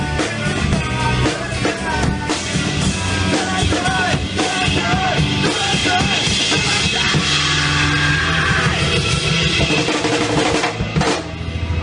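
Rock music with a full drum kit, bass drum and snare under pitched instruments.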